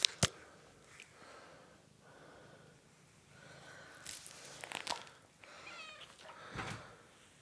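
A domestic cat gives a faint, short meow about three-quarters of the way through, among scattered light clicks and rustling; two sharp clicks right at the start are the loudest sounds.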